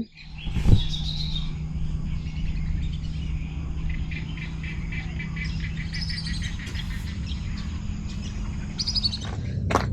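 Birds calling, one giving a quick run of repeated high chirps in the middle, over a steady low hum.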